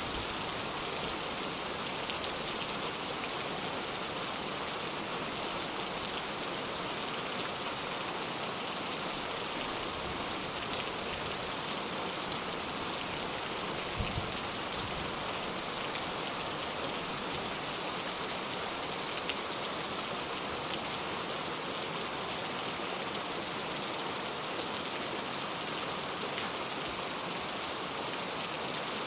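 Steady rain falling, an even hiss of drops, with one brief low thump about halfway through.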